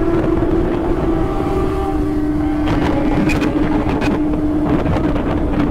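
Kawasaki ZX-25R's inline-four engine running at steady revs while riding, its pitch dropping slightly about halfway through, with wind noise on the microphone.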